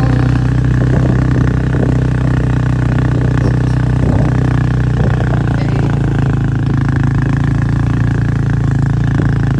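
Four-wheeler (ATV) engine running at a steady speed with an even, unchanging pitch while being ridden.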